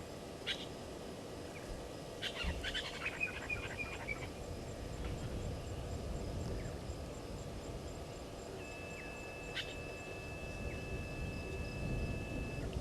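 Bush ambience at a waterhole: wild birds give short chirps and a brief trill in the first few seconds, over a faint fast ticking of insects and a low background rumble. About two-thirds of the way in, a long steady high whistle-like tone holds for about four seconds.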